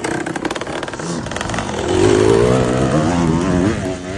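Off-road dirt bike engine running with a fast, choppy beat, then revving hard for about two seconds in the middle, its pitch wavering up and down under load.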